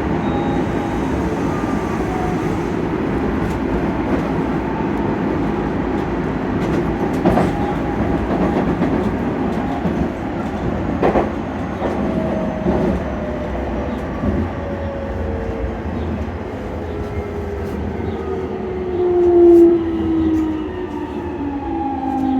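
Nankai Line electric train running on the track, a steady rumble with a few sharp rail-joint clicks. From about halfway through, the motors' whine falls steadily in pitch as the train slows.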